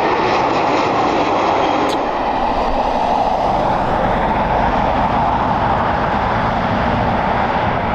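Jet airliner engines running, a loud, steady noise with a faint whine above it.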